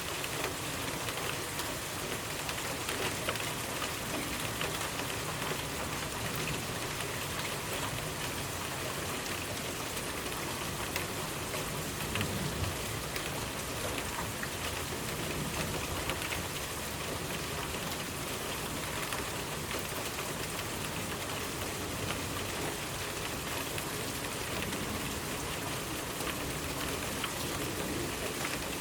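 Steady rainfall, a dense even patter of raindrops landing on surfaces.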